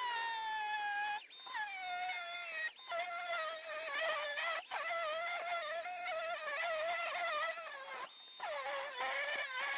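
Electric power tool motor whining at high speed, cutting out briefly a few times. Each time it starts up again its pitch starts higher and then sags and wavers, as if the tool is loaded against the work.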